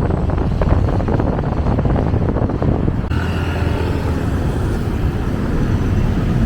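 A road vehicle running, with wind rushing over the microphone; the sound shifts about three seconds in.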